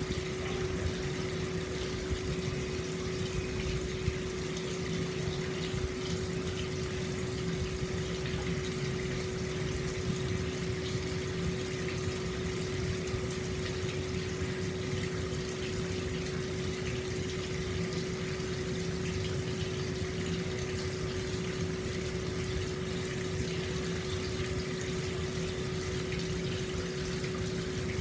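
Hot-spring water flowing steadily out into an open-air bath, a constant pouring and splashing, with a steady hum underneath.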